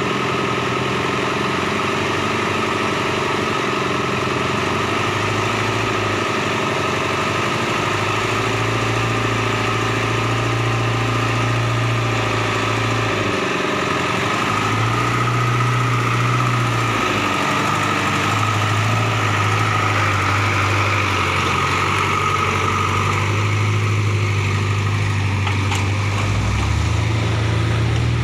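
Vehicle engine running steadily, its speed shifting up and down a few times.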